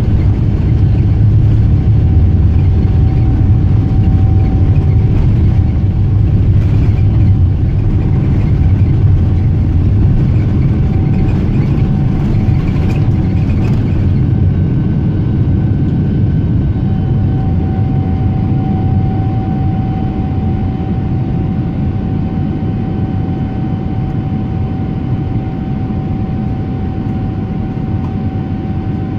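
Cabin noise of a Boeing 777-300ER in flight: a loud, steady rumble from its GE90 engines and the airflow, with a thin steady whine above it. The level eases off gradually over the second half.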